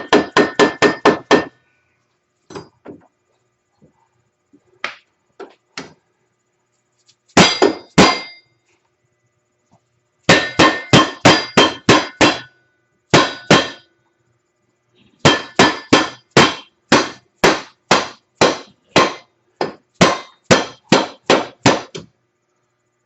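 Hammer blows ringing on steel, driving a front-suspension part of an Arctic Cat ATV into place: runs of quick strikes about three a second, broken by a few single and paired blows, with the longest run in the last third.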